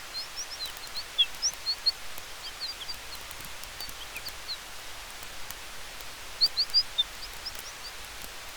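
Night forest ambience with a campfire: a steady hiss of wind in the trees with faint crackles, over which many short, high chirps sound irregularly, with a louder cluster of them about six and a half seconds in.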